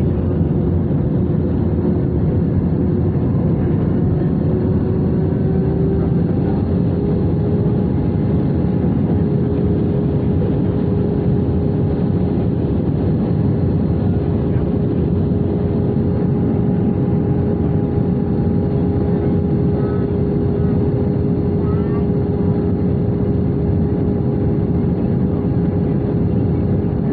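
Steady engine hum and airflow noise inside the cabin of an Airbus A320 with CFM56 engines. A tone in the hum rises slightly in pitch about five seconds in, then holds steady.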